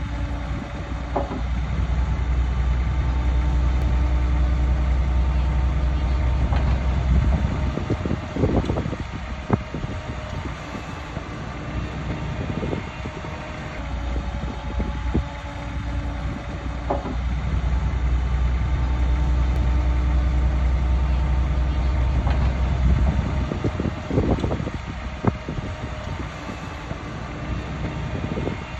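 Bulldozer's diesel engine working hard in two long pushes, a deep steady rumble lasting several seconds each time. After each push come a few seconds of metal clanks and knocks as the engine eases off.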